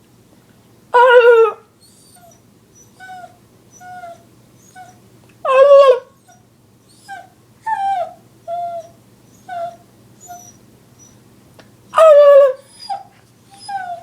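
A husky whimpering and whining in many short falling whines, with three louder drawn-out calls about a second, six seconds and twelve seconds in.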